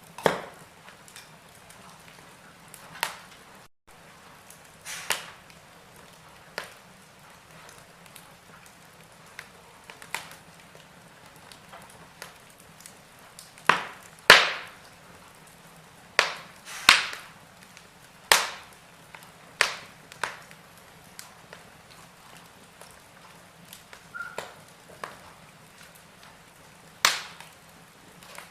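Wood fire crackling in a fireplace: sharp pops at irregular intervals over a faint steady hiss, the loudest pair coming about halfway through.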